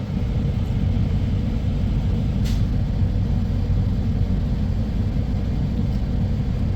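Steady low rumble of a semi truck's engine and road noise, heard from inside the cab while it drives.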